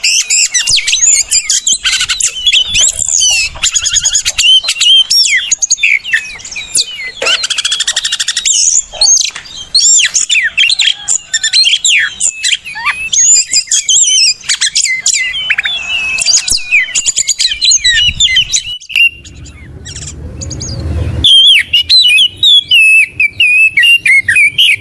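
Oriental magpie-robin (kacer) singing a loud, rapid, varied song of whistles, chirps and buzzy notes. It breaks off briefly about nineteen seconds in, then starts again.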